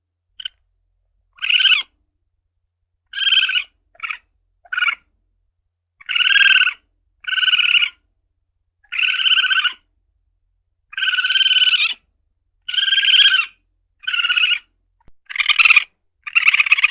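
Asian palm civet (luwak) calling: about a dozen short calls, each under a second, repeated every one to two seconds with silence between.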